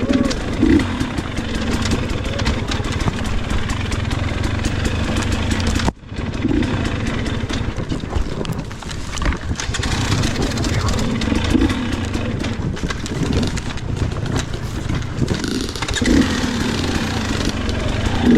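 Dirt bike engine revving up and falling back several times as the rider works the throttle, with a short abrupt break about six seconds in.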